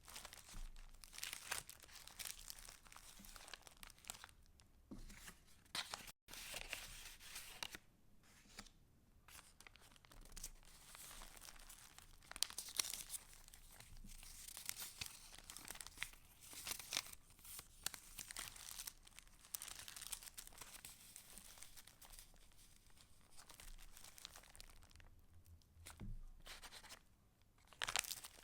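Paper pages of a handmade junk journal rustling and crinkling as they are handled and turned: irregular crisp rustles with short pauses between them.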